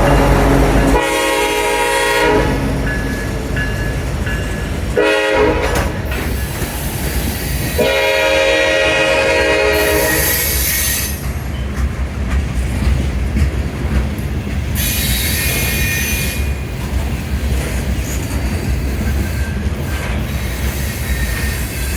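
Florida Gulf & Atlantic diesel freight locomotive sounding its horn three times, a long blast, a short one and a long one, as it passes, then the train's cars rolling by with wheel clatter and high wheel squeal.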